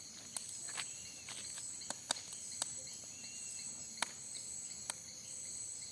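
Steady chirring of crickets and other night insects, with sharp, irregular cracks from the burning wood of a bonfire that has just caught properly.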